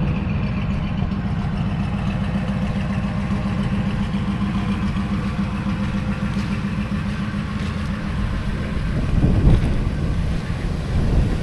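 2001 Ford F-250 pickup's engine idling steadily, with wind buffeting the microphone from about nine seconds in.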